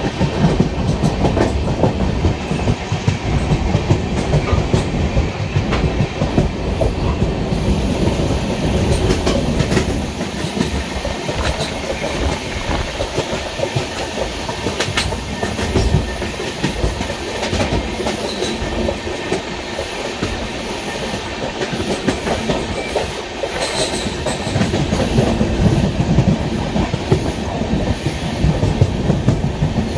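Express passenger train's coaches running along the track, heard from aboard: a steady rumble with the clickety-clack of wheels over rail joints and occasional sharper clicks.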